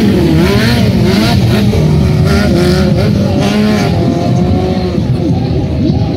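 Stunt motorcycle engine revving up and down again and again, its pitch rising and falling, held high and steady for a moment around the middle.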